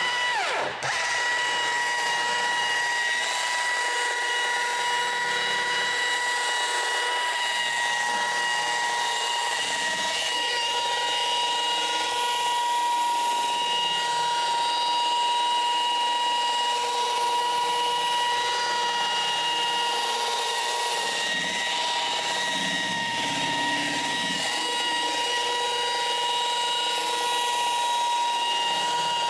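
Electric car polisher starting up suddenly and running steadily with a high whine, working a compound-primed pad over the paint in the heavy-cut stage of a paint correction.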